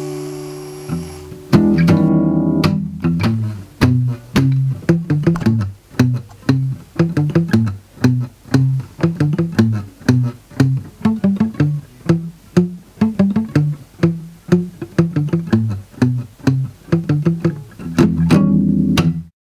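Guitar music: a held chord rings and fades, then a loud chord opens a fast, repeating low plucked riff that runs on evenly and ends on a chord, cutting off suddenly just before the end.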